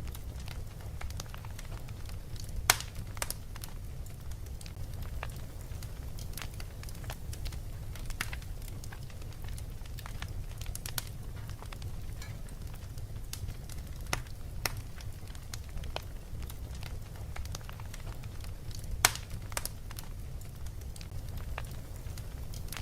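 Wood fire crackling: irregular sharp pops and snaps over a steady low rumble, with two louder pops, one about three seconds in and one near the end.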